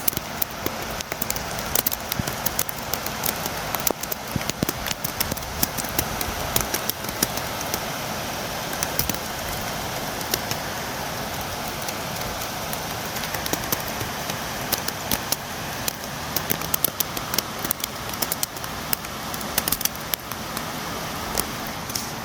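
Steady rainfall, a constant hiss with many sharp drops tapping against a window.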